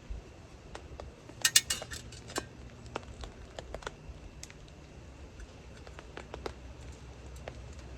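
A small folding metal camp table being put together: its legs and frame parts clicking and clinking as they are fitted, with a quick cluster of sharp clinks about a second and a half in, then scattered single clicks.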